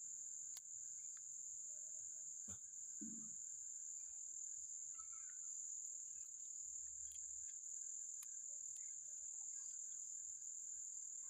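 Steady, high-pitched insect chorus, like crickets, running unbroken, with a few faint scattered clicks.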